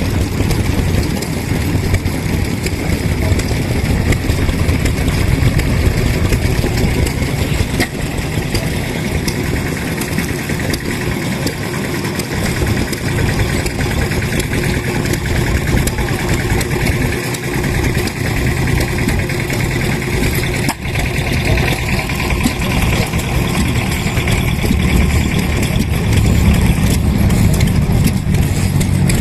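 Vintage engine running steadily with a fast, even firing beat. It grows a little louder near the end.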